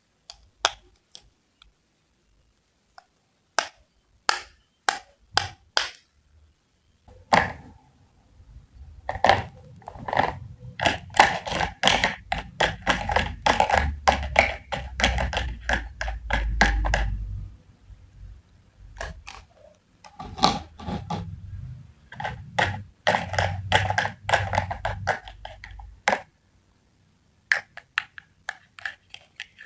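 A knife cutting on a cutting board. A few separate taps come first, then two long runs of rapid chopping strokes, each with a dull thud of the board under them.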